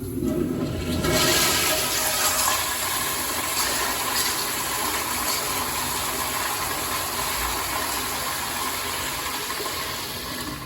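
A toilet flushing: a loud rush of water that swells about a second in, runs steadily for several seconds, eases slightly and cuts off near the end.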